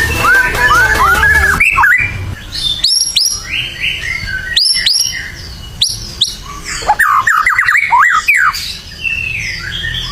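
White-rumped shama singing a loud, varied song of clear whistles, quick upward-sweeping notes and rapid trills, the phrases coming in short bursts with brief gaps.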